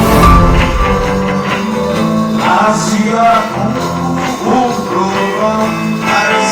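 A band playing a rock song in rehearsal, with a voice singing over the instruments from about two and a half seconds in.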